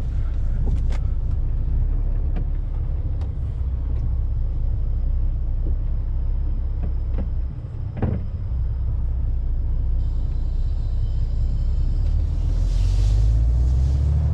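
Heavy truck's diesel engine and cab rumbling steadily as it drives off, with scattered rattles and knocks, one louder knock about eight seconds in. The engine note swells near the end, with a short hiss.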